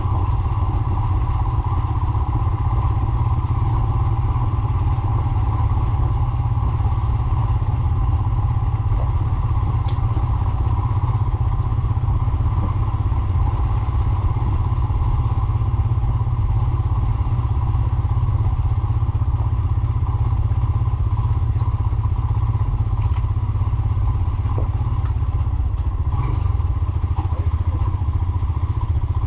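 Royal Enfield Himalayan motorcycle being ridden, its engine running steadily at an even speed with a heavy low rumble.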